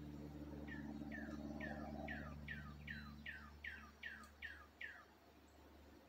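A wild bird singing a run of about eleven clear downslurred whistles, roughly two and a half a second, over a low steady hum that fades out about halfway through.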